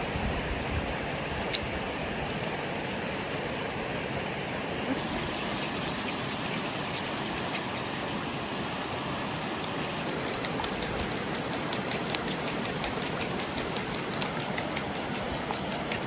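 Sausages sizzling over a campfire: a steady hiss with scattered pops and crackles, which come more often in the second half.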